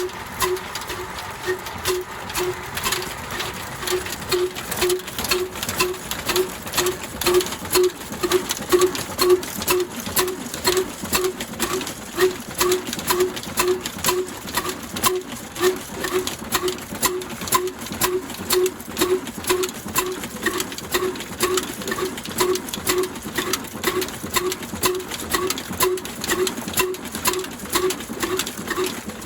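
Old black oil diesel engine running steadily at slow speed, its exhaust beating evenly about twice a second, with sharp mechanical clicks between the beats.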